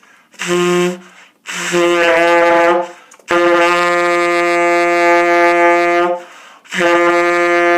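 Tenor saxophone holding the same note four times, the third the longest at nearly three seconds. Each note is fingered with the octave key down but lipped down to the lower octave, played with a bright, full tone.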